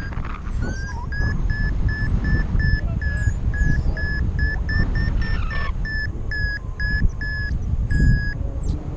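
Paragliding variometer beeping its climb tone, about two and a half short beeps a second at a steady high pitch: the pilot is climbing in lift. Wind buffets the microphone underneath.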